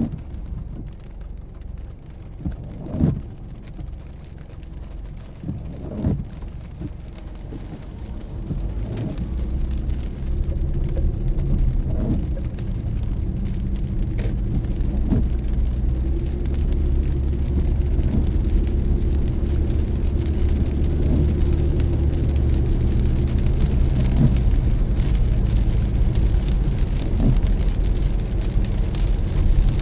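Car cabin noise on a rainy drive: rain on the car and a soft swipe about every three seconds, like a windshield wiper. About ten seconds in, the engine and road noise grow louder as the car speeds up, then stay steady.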